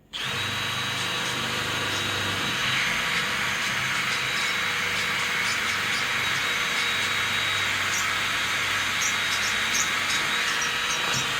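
Electric drill running steadily at high speed, boring a pilot hole in wood with a steady whine; it starts suddenly and runs without a break. The bit is worn, described as getting old.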